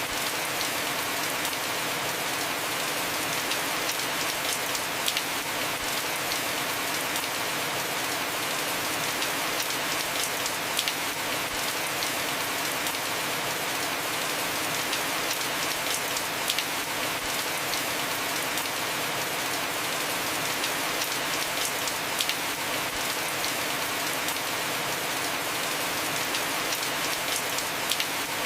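Heavy rain falling on a house roof: a steady hiss, with a sharper drop tick every few seconds.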